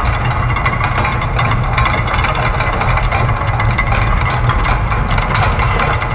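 Layered industrial machine noise: a steady low hum under a dense, continuous clatter of gears, ratchets and other small mechanisms ticking rapidly.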